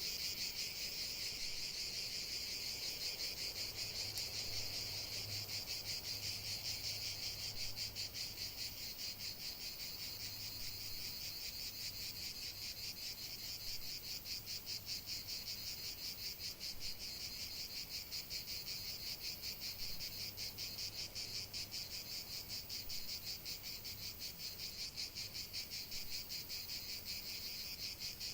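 Chorus of crickets chirping in a steady, fast-pulsed trill.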